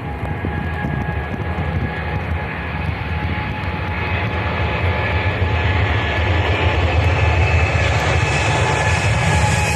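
Boeing 787-9 Dreamliner jet engines: a steady roar with high whining tones, growing steadily louder as the airliner approaches.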